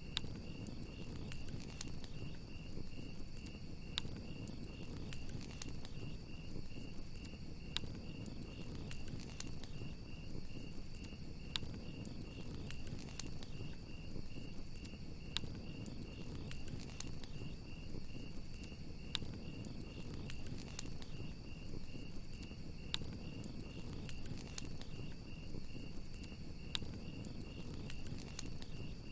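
Crickets chirping in a steady, even pulse over a crackling wood fire, which gives irregular sharp pops and snaps over a low, steady rumble.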